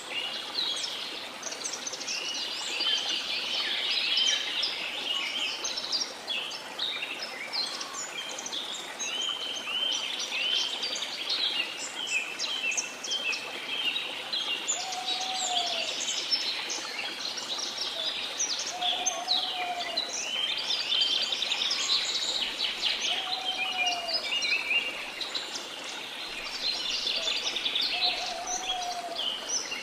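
Rainforest ambience: a dense chorus of many birds chirping and calling, with a lower two-note-like arched call repeated four times, about every four seconds, in the second half. A steady faint hiss runs beneath.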